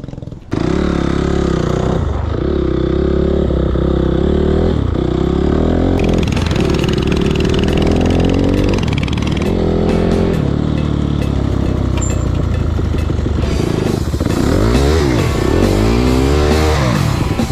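Coleman mini bike's small engine revving while being ridden, its pitch climbing and dropping again and again, with quick blips up and down near the end. It starts abruptly about half a second in.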